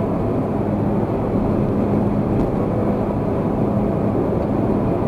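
Steady road and engine noise of a car driving, a dense even rumble with a constant low hum.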